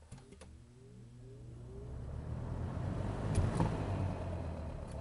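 Late-1980s Galaxy 3713 three-speed box fan switched on at medium: a click, then the motor hum rises in pitch as it spins up and a growing rush of air from the blades builds. The motor grinds as it runs, which the owner thinks may need oil or new thrust washers.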